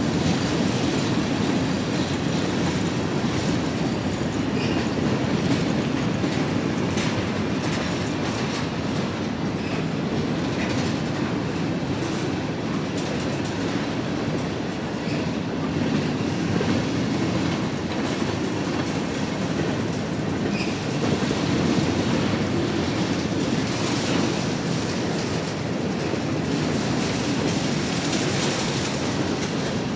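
Freight cars of a mixed freight train rolling past, a steady rumble of steel wheels on the rails with occasional faint clicks.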